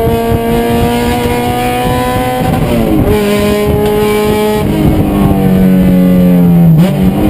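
Race car engine running hard on track. Its pitch climbs slowly, drops suddenly about three seconds in, then shifts suddenly again near the end.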